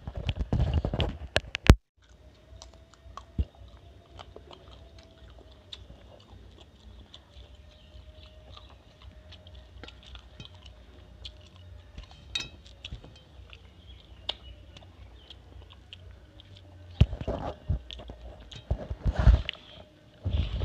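Close-up chewing and wet mouth sounds of someone eating rice and curry with their hand, with scattered small clicks. There are louder bouts of eating noise at the start and again near the end.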